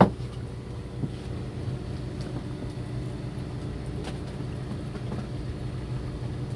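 Fishing boat's onboard engine running steadily with a low hum. A sharp knock sounds right at the start, with a fainter one about a second later.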